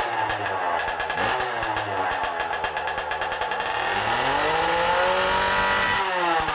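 Stihl MS440 chainsaw two-stroke engine on a motorized bicycle, running through its custom exhaust and revving. The engine speed sinks and picks up twice, then climbs and holds high from about four seconds in before dropping off near the end.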